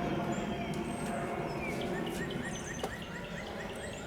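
Honeybees humming steadily around an opened nuc box. In the second half a bird calls in a quick series of short rising chirps, about three a second, and there is a single click near the end.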